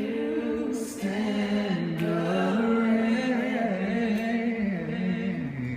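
An a cappella vocal group singing in close harmony, several voices holding sustained chord notes that step to new pitches together, with a wavering higher line above them about halfway through.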